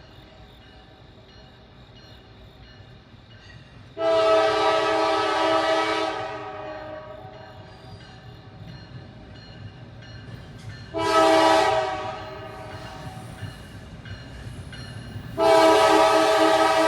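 Norfolk Southern diesel locomotive's air horn sounding in the grade-crossing pattern: a long blast about four seconds in, a short blast about eleven seconds in, and another long blast starting near the end. A low rumble of the approaching train runs underneath.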